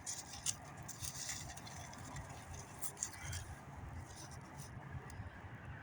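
Small wood campfire crackling, with scattered sharp pops at an irregular pace over a low rumble.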